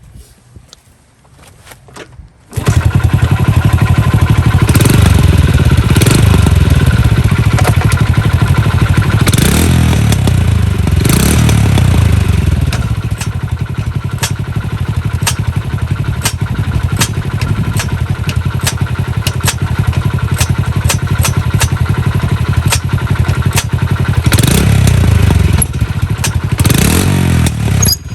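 Honda Little Cub's 50 cc four-stroke single starts about two and a half seconds in and runs loudly, blipped up and down several times, with sharp clicks running through the running. The clicks are typical of the abnormal engine-area noise being hunted down.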